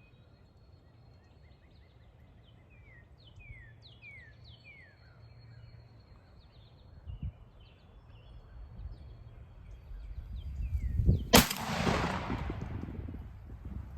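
Small birds chirping in short falling notes over a wind rumble that builds, then a single loud shotgun shot about eleven seconds in, echoing away over the next couple of seconds.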